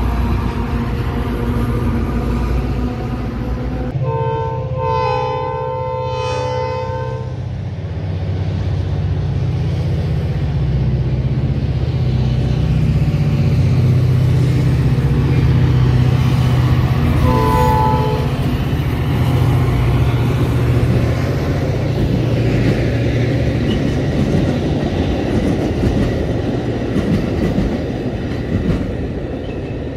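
Metra commuter train passing: diesel locomotive rumble and coach wheels clattering over the rail joints. The locomotive horn sounds a long chord about four seconds in and a short blast around eighteen seconds.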